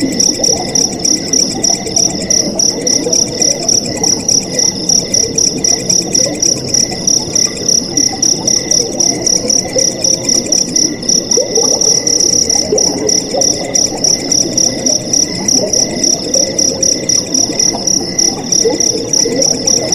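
Night field crickets chirping in a steady, high-pitched trill that pulses a few times a second, over a lower, rippling layer of sound.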